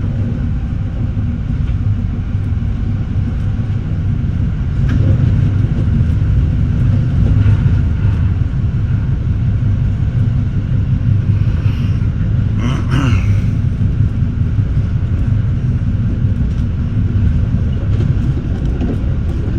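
Metra bi-level commuter train rolling along the rails, heard from inside the front car: a steady low rumble with a few brief higher-pitched sounds around the middle.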